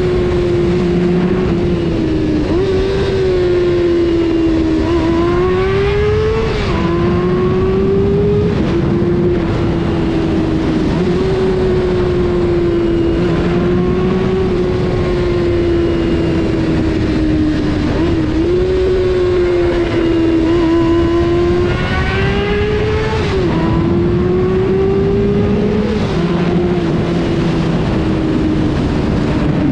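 Honda CBR600 F4's inline-four engine running at high revs on the move, its pitch mostly steady. Several times the revs climb briefly and then fall off sharply.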